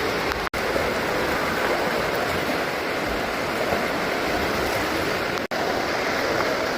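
Steady rushing noise of water in a swimming pool, broken by two brief dropouts in the sound.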